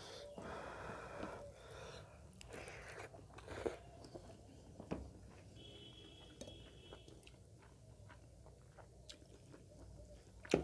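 Close-miked chewing of rice and pork gravy eaten by hand: wet chewing and smacking with small clicks, heaviest in the first few seconds, then a sharp knock near the end.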